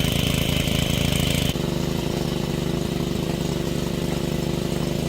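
A small engine running steadily. About a second and a half in, a high whine cuts out and the engine carries on slightly quieter.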